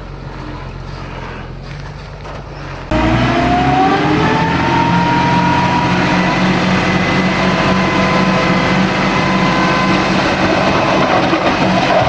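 Heavy earthmoving machine's diesel engine running. It starts as a low steady hum, then about three seconds in it turns abruptly much louder and rises in pitch into a steady high whine over a noisy clatter, as under load.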